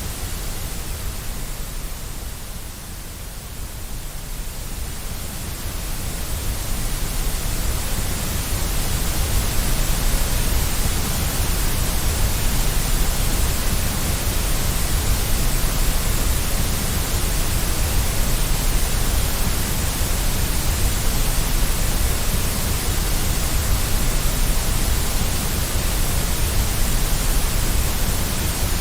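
Steady white-noise-style hiss with most of its weight in the low end and no tones or rhythm. The middle and upper range thins out briefly about two to five seconds in, then fills back in.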